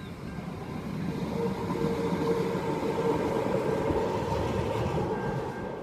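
A rail vehicle passing on the track. The rolling noise grows louder over the first two seconds, holds, then fades near the end, with a steady whine running through it.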